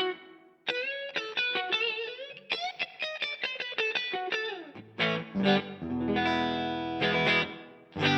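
Electric guitar played through the DVII guitar amplifier, heard via a Torpedo Captor X cab simulation with reverb: quick single-note runs with string bends, then strummed chords, one held for about a second and a half, and short chord stabs near the end.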